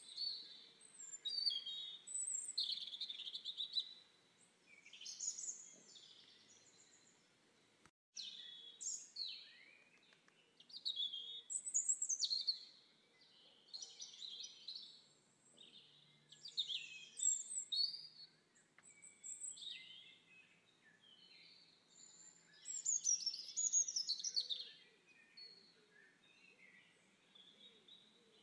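Songbirds chirping and singing in quick, varied phrases, with a short break about eight seconds in.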